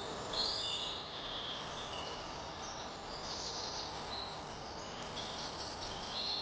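Wild birds chirping in short, repeated bursts over a steady background hiss.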